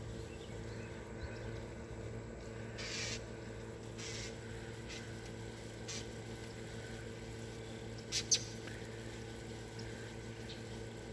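Steady hum of an air-conditioning unit, with a few short, high calls from small birds in a nearby tree; the sharpest sound is a quick double click about eight seconds in.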